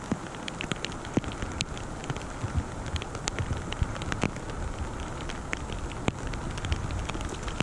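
Rain falling on the pond and on the inflatable pontoon boat: a steady hiss of rain on water with scattered, irregular sharp ticks of drops landing close to the microphone.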